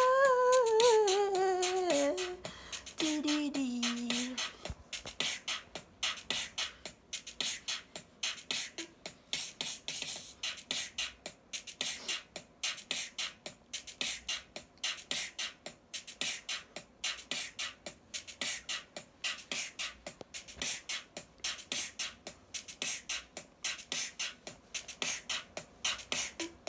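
A falling pitched vocal tone, then a steady fast rhythm of sharp percussive clicks, about three to four a second, like a beatbox or drum-machine beat.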